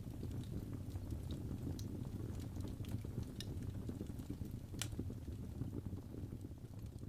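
Wood fire burning in a fireplace: a steady low rumble of flames with scattered sharp crackles and pops, one louder pop near the middle.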